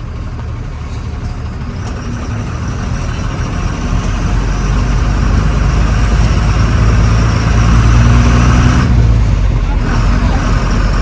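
Truck diesel engine pulling under load, growing louder over several seconds with a high steady whine above it, then easing off near the end.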